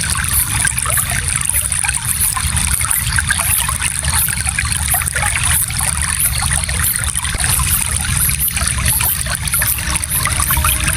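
Shallow stream flowing steadily, water trickling and splashing over stones with a low rumble underneath.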